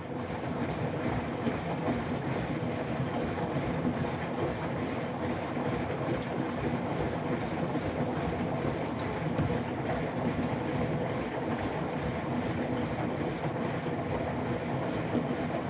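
Hotpoint ActiveCare front-loading washing machine drum turning with a large amount of hot water poured into it, the water sloshing steadily inside the drum as it rinses the suds out.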